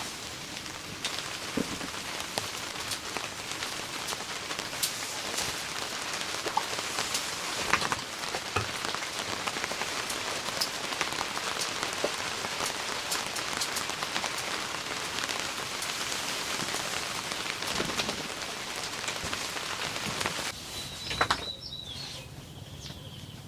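Steady rain falling, with many individual drops striking sharply. Near the end the rain cuts off suddenly, giving way to a quieter background with a brief high-pitched tone.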